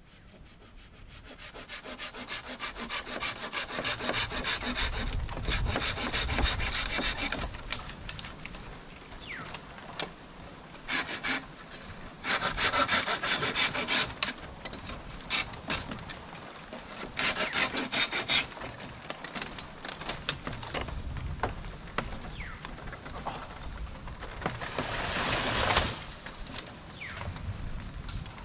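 Hand saw cutting wood in several spells of rapid back-and-forth strokes, with pauses between them and a brief, denser spell of noise near the end.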